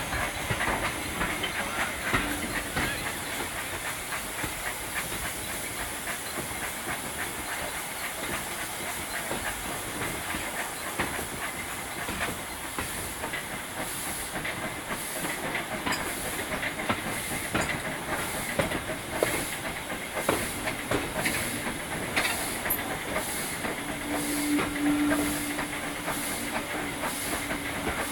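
Steam locomotive 47406 on the move with a steady hiss of steam and scattered clicks. About halfway through a regular beat sets in at roughly one per second.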